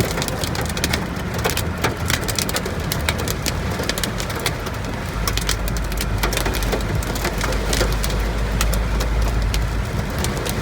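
Hailstones pelting the car's roof and windshield, heard from inside the cabin as a dense, uneven patter of sharp ticks and clicks over a steady hiss. A low rumble sets in about halfway through and drops away near the end.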